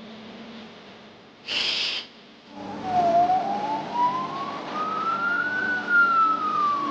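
A short hissing whoosh, then a single high tone that dips, climbs slowly and falls back down again, siren-like, over a busy background of sound effects or music.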